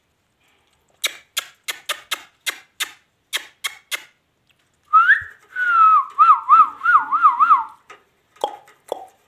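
Whistling that rises to one note and then warbles quickly up and down, as from a pet parrot, preceded by a run of sharp clicks about three a second; a few more clicks follow near the end.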